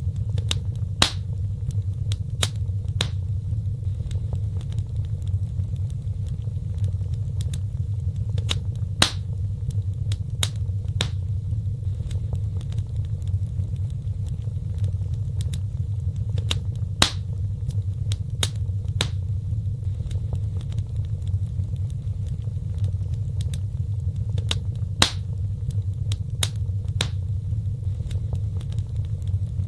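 Wood fire burning in a fireplace: a steady low rumble of flames with sharp crackles and pops every second or so, a few louder snaps standing out.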